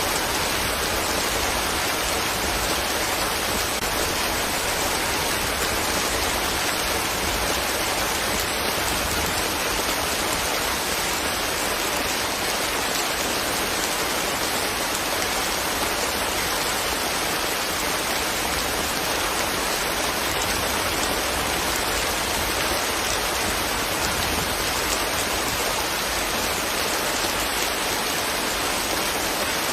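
Steady rain falling, a dense, even hiss of drops on leaves and ground.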